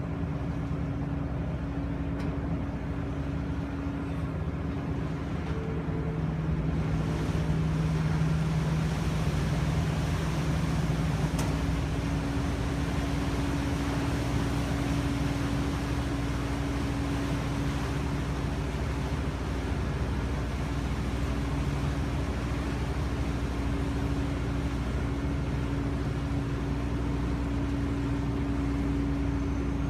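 Car ferry's engines droning steadily, a constant low hum over a wide rumble and rush of noise, swelling a little about seven seconds in.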